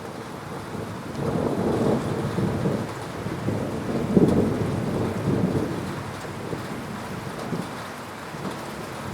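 A thunderclap rolls over steady rain. The rumble builds about a second in, peaks near the middle with a crackling roll, and fades away over the last few seconds while the rain goes on.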